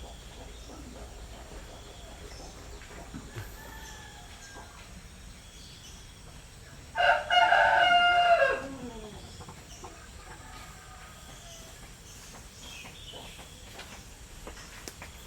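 Rooster crowing once, a single loud cock-a-doodle-doo about halfway through that falls away at its end, with fainter chicken calls between.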